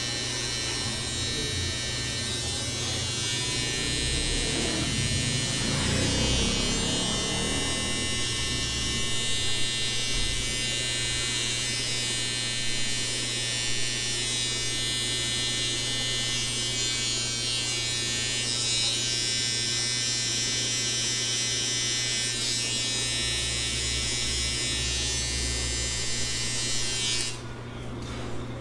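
Barber's electric clippers running with a steady buzz while trimming a beard, switched off suddenly near the end.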